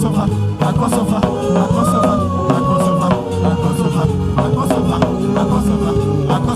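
Instrumental worship music with a steady drum beat and a busy bass line under it. A long held melody line rises about a second and a half in and falls back about three seconds in.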